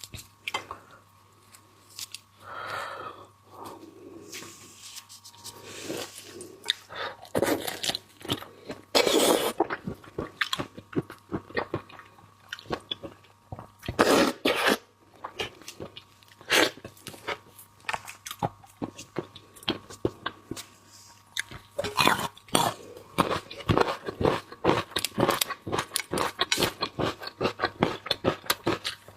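Close-miked eating of seafood: wet chewing, sucking and crunching with many sharp clicks and crackles, busiest and most rapid in the last several seconds.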